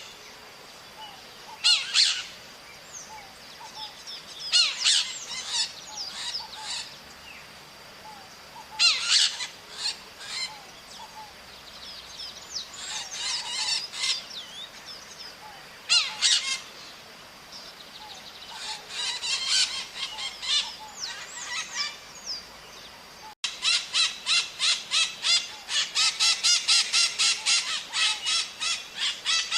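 Maritacas, small parrots, calling in short groups of rapid high calls every few seconds. After a sudden cut late on, a dense, unbroken run of repeated calls at about four or five a second.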